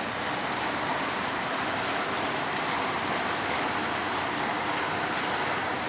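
Steady rushing, hissing water noise with no change in level.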